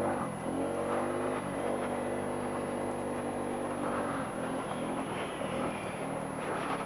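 A 2007 Honda Ruckus scooter's 49 cc four-stroke single-cylinder engine running at a steady pitch under way, then easing off about four seconds in.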